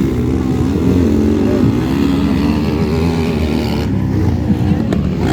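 Several off-road motocross motorcycles racing, their engines revving up and down over one another as they work the track.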